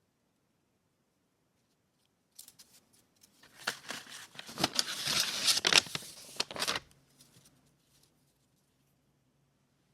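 Paper handled at close range: a dense run of crisp rustling with many sharp clicks, lasting about three seconds from about three and a half seconds in.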